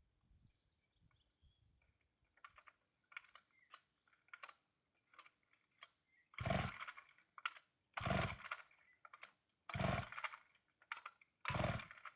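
Chainsaw being pull-started: after a few light handling clicks, four hard pulls on the recoil starter about a second and a half apart, the engine turning over each time but not catching. The saw has stood unused since last season.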